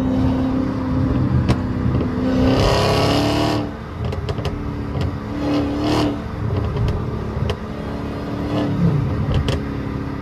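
Dodge Hellcat's supercharged 6.2-litre HEMI V8 running under way. About two and a half seconds in it accelerates hard, rising in pitch for about a second before dropping off suddenly, with a smaller rise a couple of seconds later. A few sharp clicks are scattered throughout.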